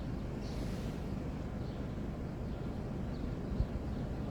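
Steady low rumble of car road noise heard from inside a moving car, with one brief low thump about three and a half seconds in.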